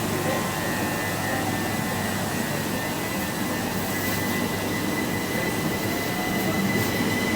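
Train running through the station, a steady rumble and hiss with a thin steady high tone.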